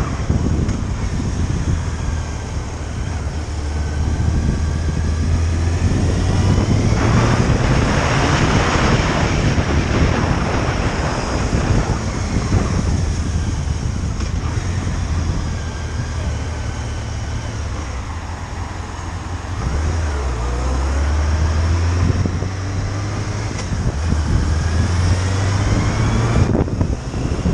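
Motorcycle engine running on the road with heavy wind buffeting the microphone; the engine note rises and falls with the throttle.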